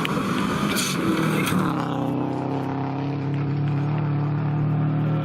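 Subaru Legacy rally car's flat-four boxer engine running hard on a special stage. For the first second and a half it is rough and noisy, with a few sharp cracks. Then it settles into a clear, steady engine note.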